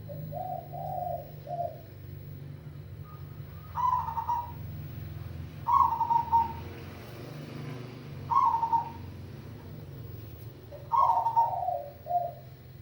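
Zebra dove (perkutut) cooing: a soft, lower phrase near the start, then four louder cooing phrases every two to three seconds, the last one running on into a trailing lower part.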